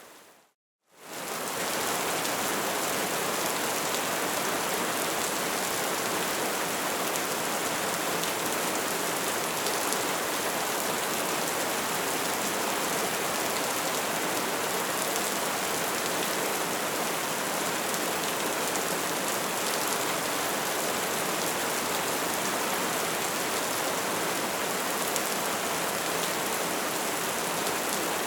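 Bonfire burning with a dense, steady crackle and hiss. The sound drops out to silence for under a second just after the start, then fades back up.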